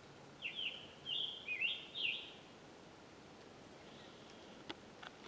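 A songbird singing one quick phrase of slurred, sweeping whistled notes, starting about half a second in and lasting nearly two seconds, with a fainter snatch of song a little later.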